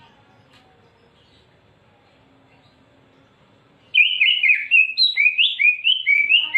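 Cucak ijo (green leafbird) song: after about four seconds of faint background, a loud, fast run of rising-and-falling whistled notes, about four a second, lasting some two and a half seconds.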